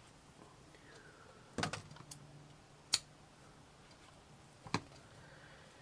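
A few small clicks and taps from craft materials being handled on a work table, four in all, spread out over faint room tone.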